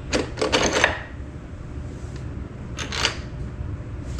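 Metallic clinks and rattles from parts and tools being handled while an electric dirt bike is assembled: a quick cluster in the first second and another short one about three seconds in.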